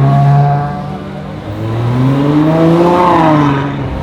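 A Ferrari engine revving: held high at first, easing off about a second in, then climbing to a peak about three seconds in and dropping back.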